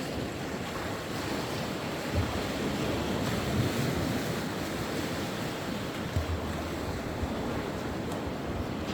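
Sea waves washing in steadily, with wind rumbling on the microphone in brief low gusts about two seconds in and again about six seconds in.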